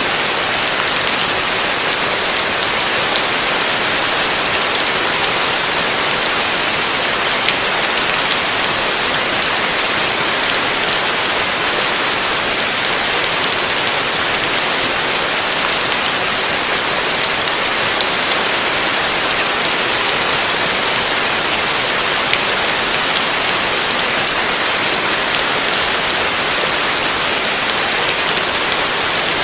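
Heavy rain falling steadily on a roof: a dense, even hiss of drops with no let-up.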